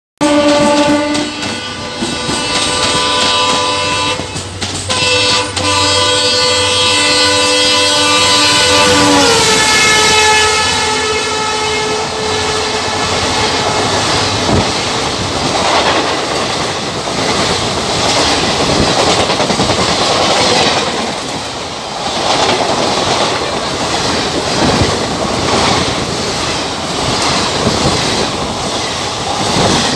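A train's multi-tone horn held for about ten seconds, its pitch dropping as it passes, then an Indian Railways passenger train's coaches running past at speed with the rhythmic clickety-clack of wheels over rail joints.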